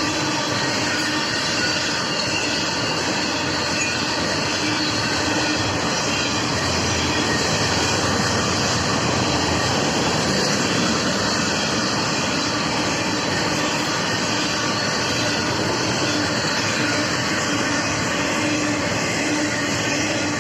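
BNSF intermodal freight train's cars rolling past at a level crossing: a steady, unbroken rumble and rattle of wheels on rail.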